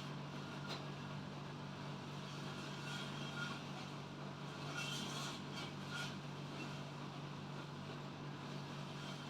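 A steady low hum with an even background hiss, with a few faint clicks and small sounds scattered through.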